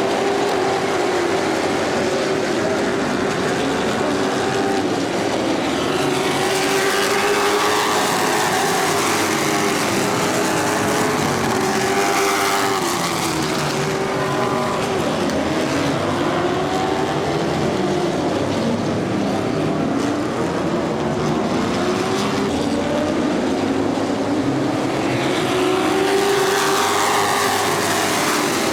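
A field of street stock race cars running hard around a short oval, several engines at once, their pitch rising and falling again and again as the cars accelerate and lift for the turns and pass by.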